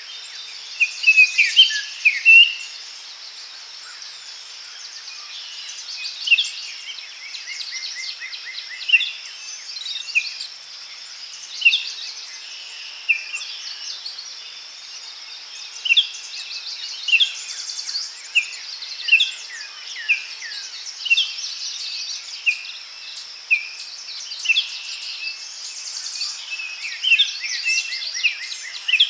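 Several songbirds singing and calling over a steady high insect drone: short repeated chirps and trills every second or two, with a busier burst of calls in the first few seconds.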